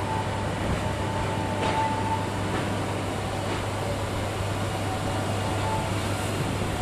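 Tramway du Mont Blanc rack-railway train running, heard from aboard at the window: a steady rumble with a low hum. A faint high whine comes and goes over it.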